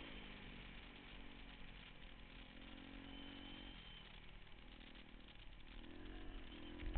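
Pit bike engine running at changing revs: it drops off about four seconds in and picks up again near the end. A short low thump comes just before the end.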